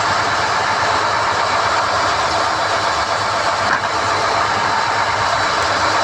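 SDH-1600 core drilling rig running steadily under power while NQ drill rods are hoisted from the hole, a dense mechanical drone with a faint high whine.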